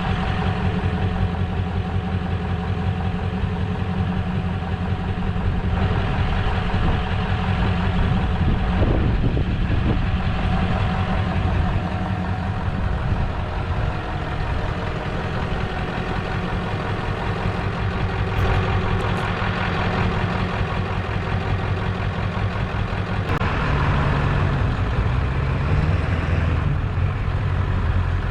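An engine idling steadily, with a brief wavering in its pitch about three-quarters of the way through.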